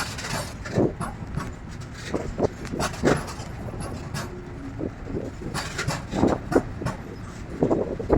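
A passing train: a steady low rumble with irregular sharp knocks, some in quick pairs, as wheels run over rail joints, loudest near the end.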